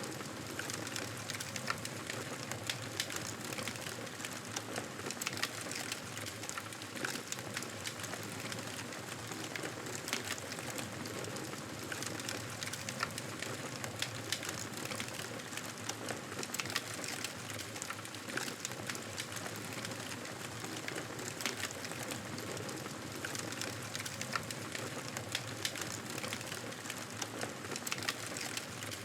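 Campfire crackling: a steady hiss scattered with many small, sharp pops.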